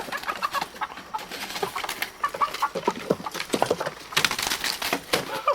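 Chickens clucking and squawking in short sharp calls while a rooster is chased and caught by hand, with a burst of rustling about four seconds in.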